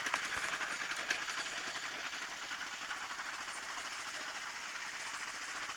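Motorcycle running at riding speed: a steady engine drone with a fast, even pulse and road and wind noise, with a couple of sharp clicks near the start.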